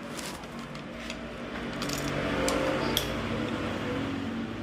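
A few light metallic clicks and clinks of hand tools on engine parts over a steady low hum.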